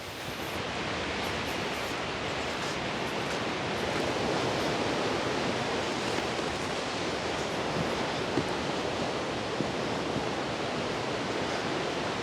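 Steady rushing roar of Plodda Falls' water through the gorge, mixed with wind in the trees; a few faint ticks toward the end.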